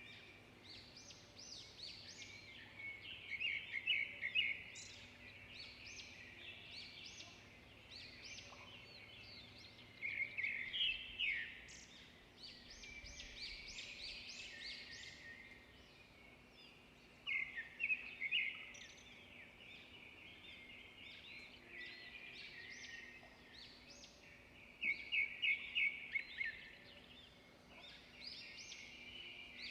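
Small songbirds chirping and twittering continuously, with four louder flurries of rapid chirps spaced about seven seconds apart.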